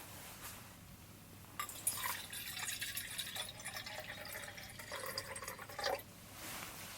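Liquid being poured into a vessel, starting about a second and a half in and stopping about six seconds in.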